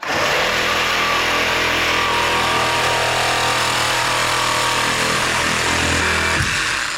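A motorized tool or machine running steadily at constant speed. It starts abruptly and stops after about six and a half seconds.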